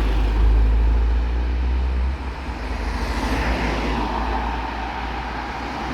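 Road traffic: a deep engine rumble that drops away about two seconds in, then the steady engine and tyre noise of passing vehicles, swelling a little around the middle.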